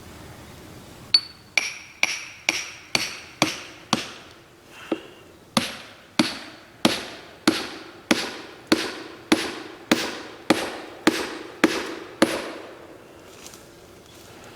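Hammer blows driving a felling wedge into the cut of a tree, about twenty strikes: a quick run of blows with a ringing note, a short pause, then a steady run of about one blow every half second or so.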